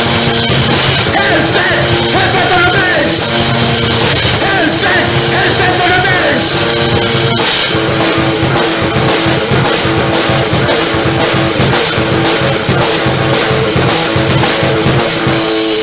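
Loud rock music with a drum kit playing under held pitched notes; about halfway through the drumming becomes faster and busier.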